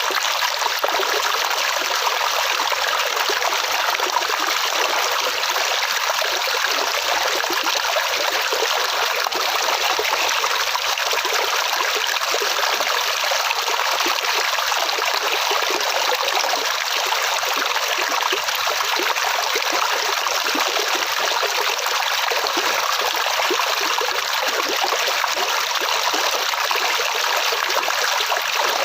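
Flowing water: a steady stream running and trickling, an even rushing with no breaks.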